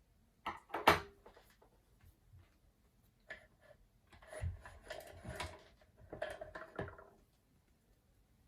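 Objects being handled: a few knocks near the start, then two spells of clattering with a faint ring in them, about four and six seconds in.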